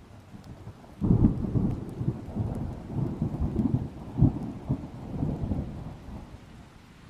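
A thunderclap: a low rumble breaks in suddenly about a second in, rolls and crackles for several seconds with a strong peak midway, then fades away. Light rain hisses faintly beneath it.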